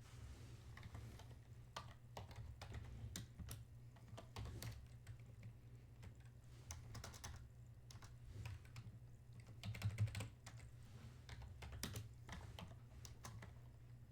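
Typing on a computer keyboard: faint, irregular key clicks in uneven runs, a little louder about ten seconds in, over a low steady hum.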